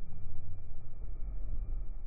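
Car engine rumbling at low revs, a deep uneven exhaust rumble.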